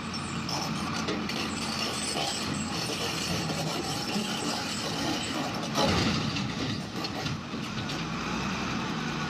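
Heavy truck running, with a sudden louder noise about six seconds in.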